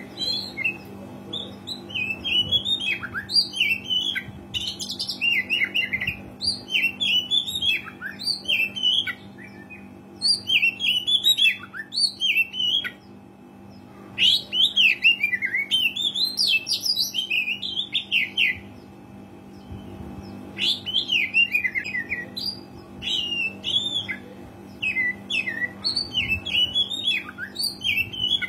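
Oriental magpie-robin (kacer) singing in full, vigorous song: fast runs of varied sweeping whistles and chatters, in phrases of a few seconds with short pauses between them, over a faint steady low hum.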